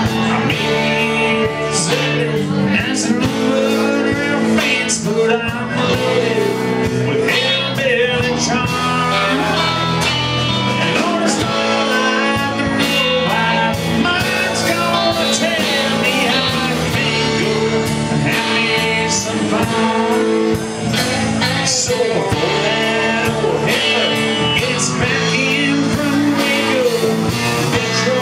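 Live band playing a country-blues rock song, with electric guitar and a singing voice over bass and drums.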